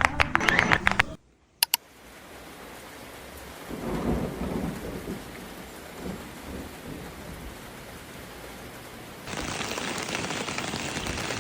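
Steady rain with low rolls of thunder swelling about four and six seconds in. The rain grows louder and hissier about nine seconds in. Before the rain, a second of guitar music cuts off, followed by two short clicks.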